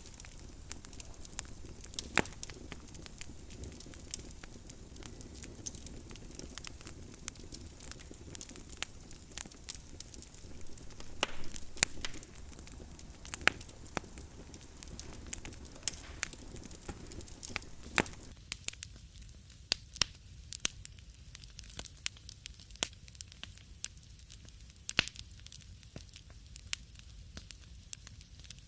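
Wood fire in a fireplace crackling, with frequent irregular sharp pops and snaps over a soft steady hiss. About two-thirds of the way through, the hiss behind the pops thins out.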